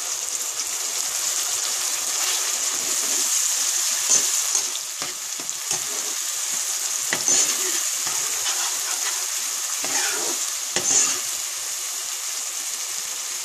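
Wet ground masala paste sizzling and frying in hot oil over fried onion in a non-stick pan, stirred with a steel ladle. A steady high sizzle, with a few sharper scrapes or knocks of the ladle against the pan.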